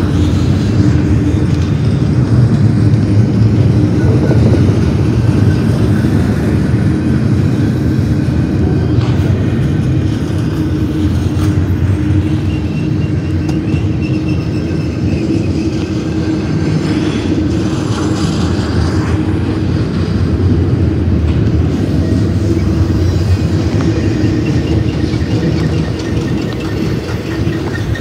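BNSF intermodal freight train of double-stack well cars and trailer-carrying spine cars rolling past at close range: a steady, loud rumble of steel wheels on rail, with faint high-pitched tones now and then.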